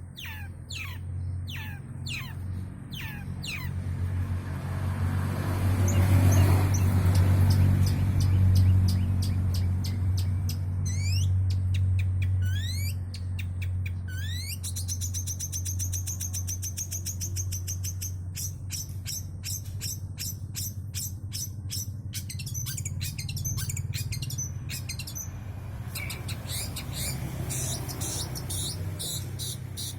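Long-tailed shrike (cendet) singing a varied song full of mimicked calls: sharp falling whistles at first, then rising sweeps, fast high trills, rapid ticking and buzzy chatter. A steady low hum runs underneath and swells loudest about six to nine seconds in.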